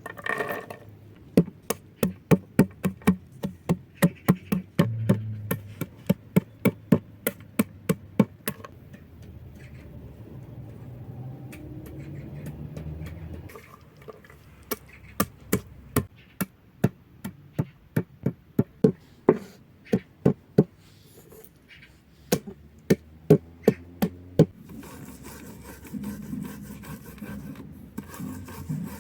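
Knife chopping on a wooden board, about three strokes a second, in three runs with short pauses between.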